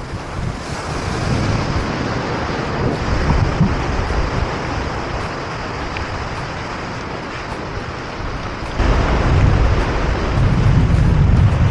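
Ocean surf and wind on an open beach, with wind buffeting the microphone; the low rumble of the buffeting gets louder about nine seconds in.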